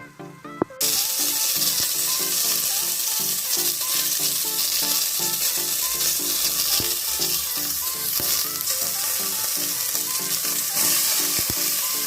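Green beans and bacon sizzling in a hot frying pan, a steady loud hiss that starts abruptly about a second in.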